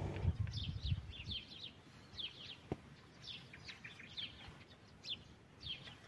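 Small birds chirping repeatedly, many short falling chirps, with a low rumbling noise in the first second or so.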